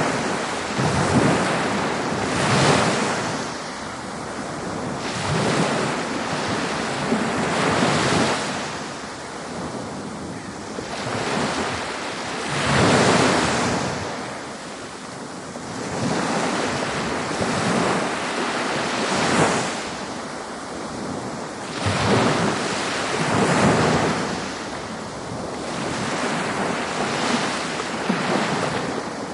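Ocean waves breaking on a beach: a continuous rushing wash of surf that swells and falls back every two to three seconds.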